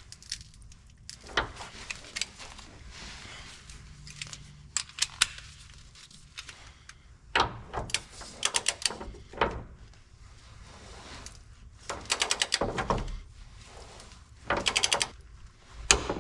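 Hand ratchet clicking in several short rapid bursts, with scattered metallic knocks, as the new cab mount bolt is tightened.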